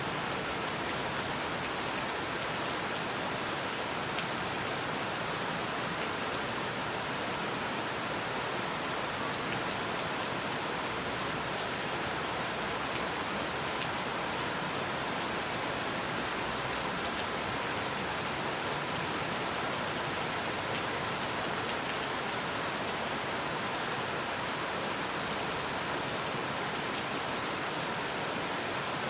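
Steady rain: an even, unbroken hiss of rainfall with fine drop ticks in it.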